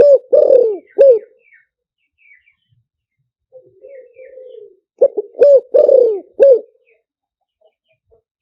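Spotted dove cooing, used as a lure call for trapping. It gives a phrase twice: a soft, wavering note, then three or four loud, clipped coos. Faint high chirps are heard between the phrases.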